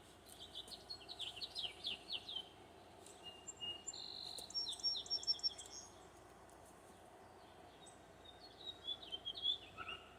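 Songbirds singing: a quick run of falling notes, then several held whistles and trills, and another short burst of notes near the end, over faint steady background noise.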